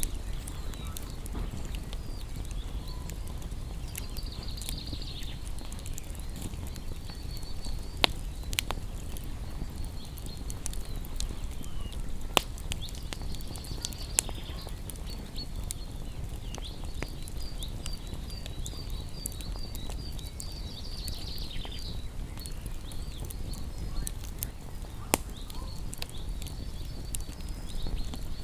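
Wood fire burning with a low steady rumble and a few sharp crackling pops, while small songbirds chirp in short bursts of rapid high twittering.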